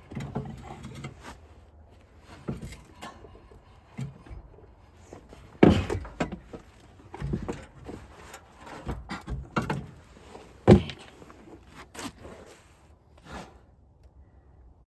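Irregular knocks, clunks and scraping of tools and metal parts being handled while working on a car's transmission removal, with two sharper, louder knocks about six and eleven seconds in.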